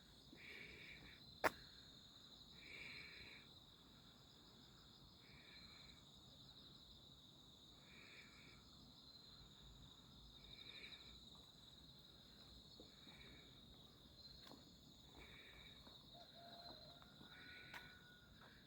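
Faint night insects: a steady high cricket trill with a second, lower insect call repeating about every two and a half seconds. A single sharp click comes about one and a half seconds in.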